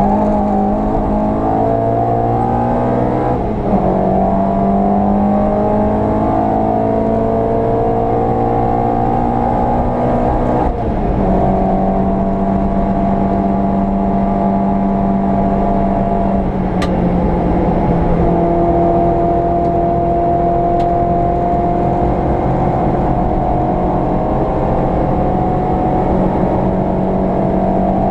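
A VW Polo 86C's engine pulls under throttle, its pitch climbing through the gears. Short breaks about 4 and 11 seconds in sound like upshifts, and after that it holds a steadier, high pitch.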